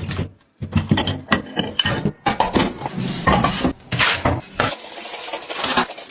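Metal tools and parts clinking and scraping in a string of irregular knocks and clicks.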